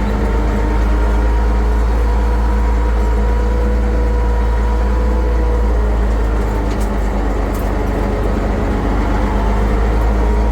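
International 1066 tractor's turbocharged six-cylinder diesel engine running steadily with a deep, even rumble.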